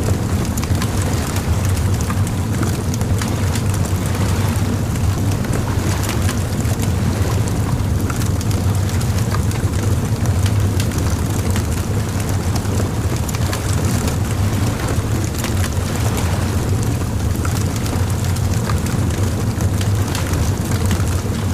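Bonfire crackling, with scattered small pops and snaps over a steady low rumble.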